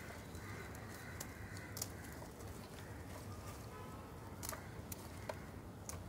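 Faint birds calling in the background, with a few light clicks and a low steady hum.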